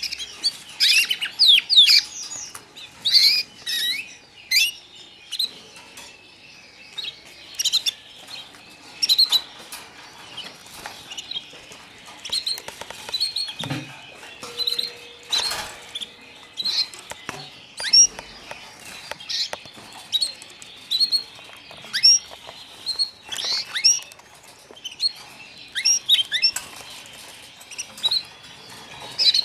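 Young white canaries chirping: many short, high, sliding chirps in quick irregular runs. A dull knock about halfway through.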